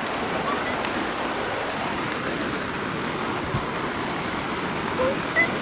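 Heavy rain falling on a vinyl greenhouse, a steady dense hiss and patter. A couple of brief faint chirps near the end.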